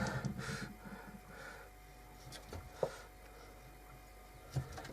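Faint handling noises: a brief rustle at the start, then a few scattered small taps and clicks.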